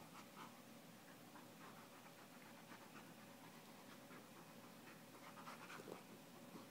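Faint dog panting during a play-fight with a cat, with soft scratchy scuffling sounds and a slightly louder flurry near the end.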